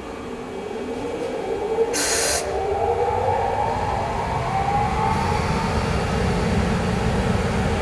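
Two EF64 electric locomotives pulling away with an oil tank freight train: a rising whine from the motors climbs steadily as the train gathers speed, over a growing low rumble. About two seconds in there is a short, sharp hiss of air.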